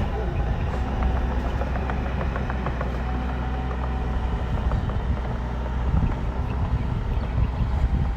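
Bulldozer's diesel engine running steadily under load, with scattered light metallic clicks.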